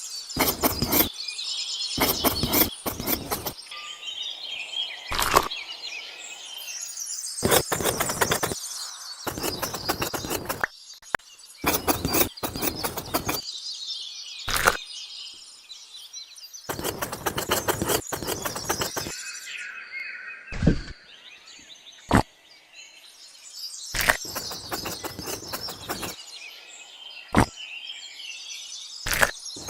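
Birds chirping, with many short sharp clicks and knocks, some coming in quick clusters.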